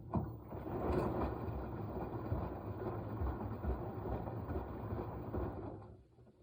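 Washing machine in its wash cycle: water and laundry churning in the turning drum. The sound starts suddenly, runs about six seconds with uneven low surges, then stops as the drum pauses.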